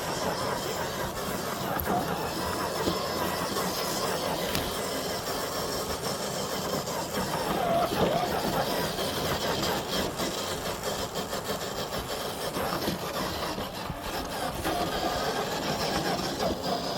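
FMS FJ40 RC crawler's electric motor and gearbox whining, the pitch wavering up and down with the throttle as it crawls along.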